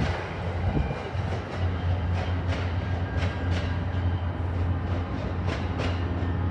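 MBTA commuter rail train rolling past over a steady low rumble, its wheels clacking over rail joints in pairs, three times.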